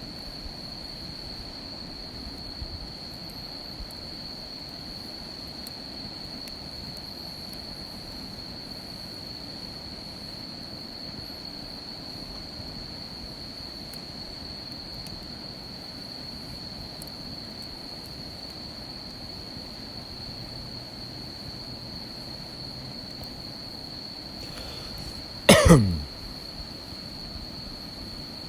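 An insect trilling on one steady high note, over a low hiss with a few faint pops. Near the end a single loud, brief sound sweeps quickly down in pitch.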